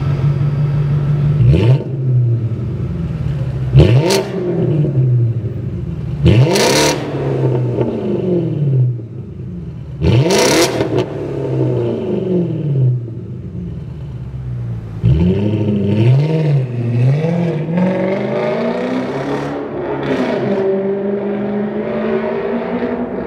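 BMW E60 545i's 4.4-litre V8 through an Eisenmann Race exhaust with no resonators, idling and then revved four times in sharp blips that rise quickly and fall back to idle. In the second half come several quicker blips in a row and a longer held rev that settles back down.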